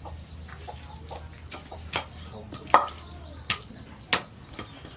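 Four sharp knocks in the second half, the second one the loudest, over a low steady hum that stops at the third knock.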